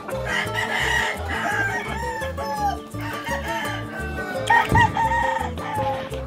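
Gamefowl roosters crowing over background music with a steady beat.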